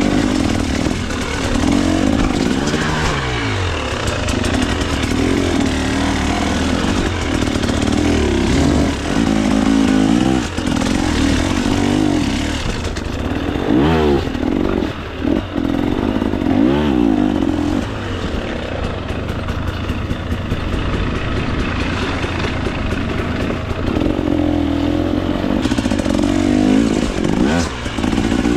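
2024 KTM 300 XC-W two-stroke dirt bike engine running under riding load, the revs rising and falling over and over as the throttle is worked, with a few brief drops in level.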